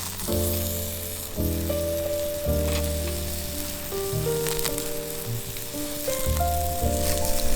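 Food sizzling as it grills over an open campfire, under background music of held notes with a slow-moving bass line.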